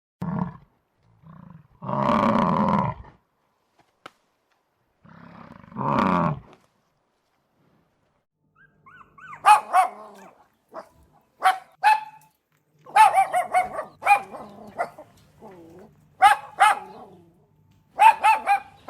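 Two long, rough growls in the first half. From about halfway, a dog barks in short, sharp, high-pitched barks that come in quick groups.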